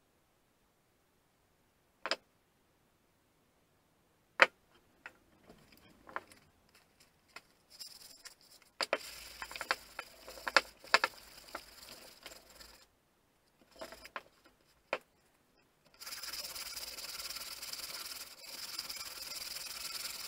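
Sandpaper rubbing on a wooden crosscut-saw handle. It starts with a few separate knocks and clicks, then comes in stop-start strokes, and becomes steady continuous sanding for the last few seconds.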